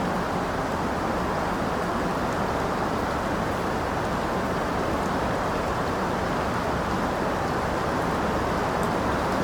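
Steady rain: an even, unbroken hiss with a few faint ticks.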